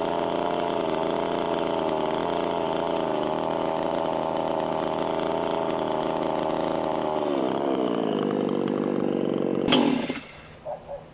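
A small engine running steadily, then slowing down about seven seconds in and stopping with a sharp click just before the end.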